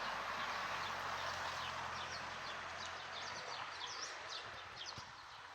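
Small birds chirping, many quick short calls overlapping, over a soft outdoor hiss that fades slightly toward the end.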